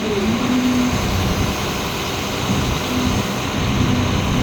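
Cat 725C articulated haul truck's diesel engine running steadily, heard from inside the cab, with a faint whine coming and going.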